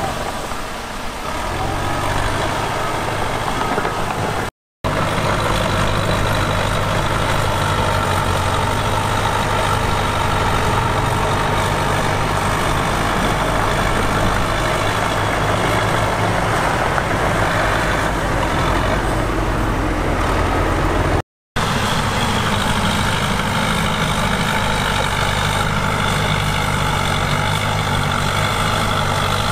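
Heavy diesel engine of earthmoving equipment running steadily under load, cut by two brief moments of silence.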